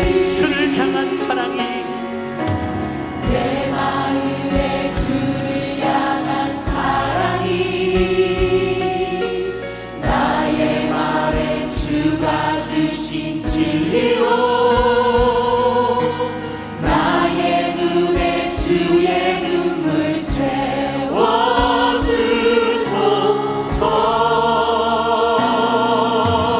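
A choir and congregation singing a gospel hymn with band accompaniment. Held notes with vibrato are sung over a steady beat.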